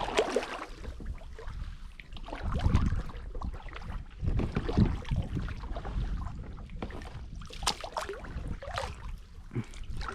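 Water lapping and splashing around a kayak, with scattered small knocks and irregular low buffeting.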